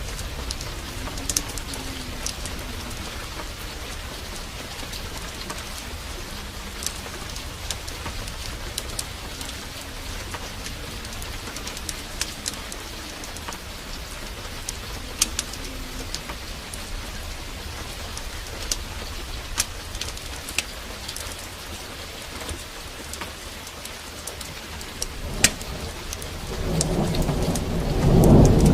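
Steady downpour of rain with scattered sharp crackles of a fireplace fire. Near the end a loud thunder rumble swells up.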